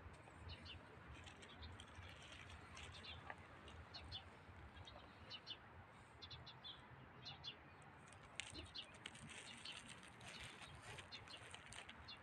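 Near-silent outdoor background with faint, scattered chirps of small birds, and a run of soft crackling rustles about two-thirds of the way through.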